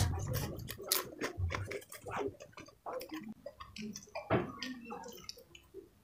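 Close-up mouth sounds of chewing a crunchy fried cracker: a quick run of small crisp crunches, thinning out after about three seconds, then sips and gulps of water from a glass.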